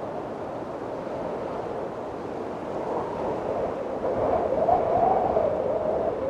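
Windstorm wind blowing steadily, swelling into a louder gust about four seconds in with a wavering howl, then easing near the end.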